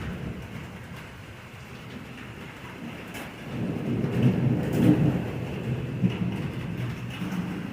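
Rain falling steadily during a thunderstorm. A low rumble of thunder swells about halfway through, then slowly fades.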